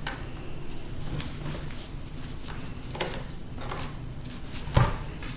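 A few scattered clicks and knocks of the stripped-down laptop's aluminium and plastic parts being handled and set down, over a low steady hum.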